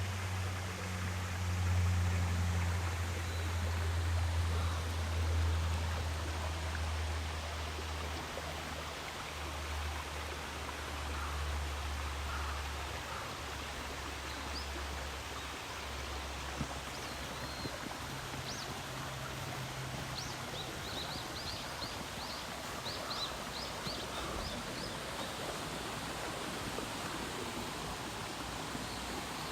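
Mountain stream rushing steadily. A low hum runs under it for about the first half, then fades, and a quick series of high chirps, like a small bird, comes about two-thirds of the way in.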